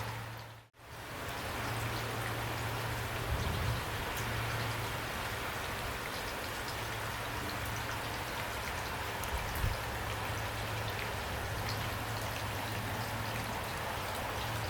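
Heavy rain falling steadily, with a low steady hum underneath and a few louder single drops. Less than a second in, the rain fades out to silence for a moment and then comes back.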